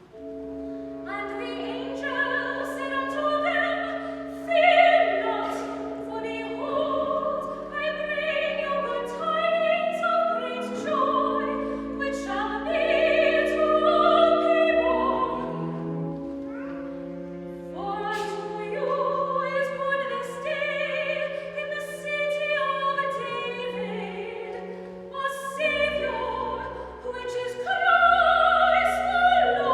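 Classical sacred vocal music: voices singing sustained, phrased melodic lines with instrumental accompaniment holding low notes underneath.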